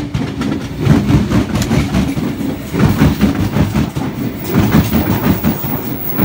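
Double-deck electric suburban train passing at close range, its wheels clattering rhythmically over the rail joints.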